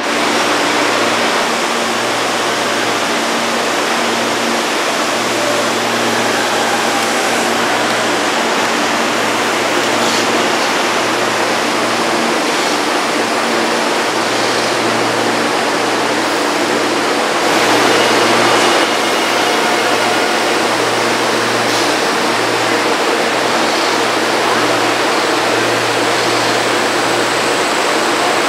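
Electric train running at the station platform: a steady rushing noise over a low, pulsing electrical hum, briefly louder about eighteen seconds in.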